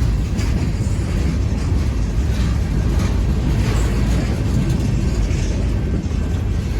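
Freight train cars rolling slowly past: a steady low rumble of wheels on rail with faint scattered clanks.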